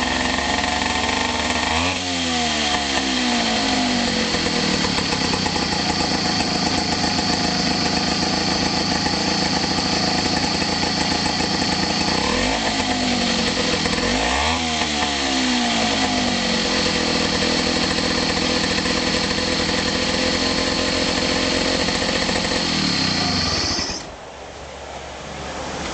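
Suzuki DT4 4-horsepower two-stroke outboard motor running, its speed dropping and picking up again twice. The engine cuts out about two seconds before the end, leaving a steady rushing noise.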